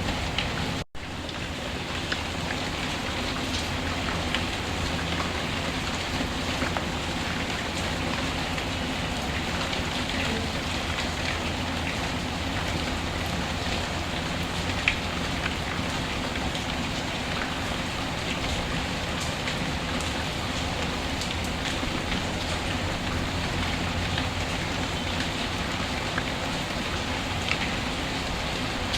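Steady rain falling, with scattered sharp ticks over it; the sound cuts out for an instant about a second in.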